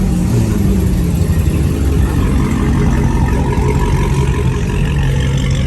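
Loud car engine running steadily at idle, a low rumble with a slight change in pitch near the start.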